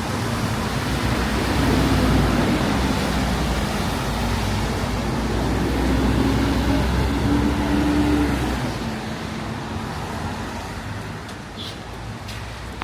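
Road traffic: a motor vehicle running close by over a steady hiss of traffic noise, its engine note rising slightly. It fades away after about eight seconds.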